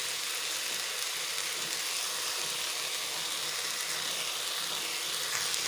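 Bottle gourd leaves and vegetables sizzling steadily in a pan of hot oil.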